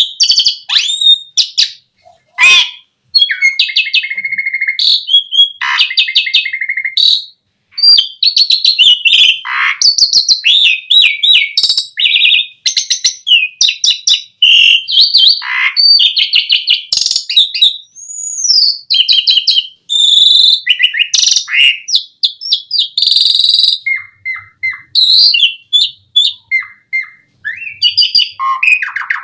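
Asian pied starling (jalak suren) singing a long, varied song of chirps, rapid trills, whistled glides and harsh notes, broken by brief pauses.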